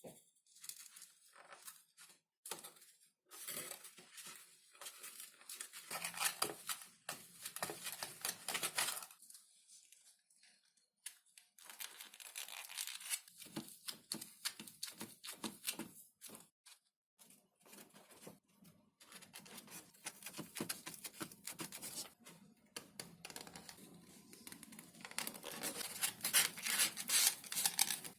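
Crackly tearing and scraping of thin XPS foam sheet being worked by hand, coming in irregular bursts with short pauses.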